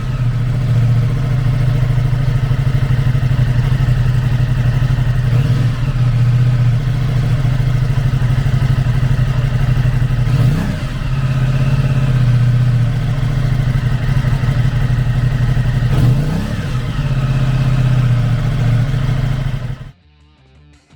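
2022 Aprilia Tuono 660's 659 cc parallel-twin engine idling steadily after being started, blipped twice with short revs about ten and sixteen seconds in, then shut off about a second before the end.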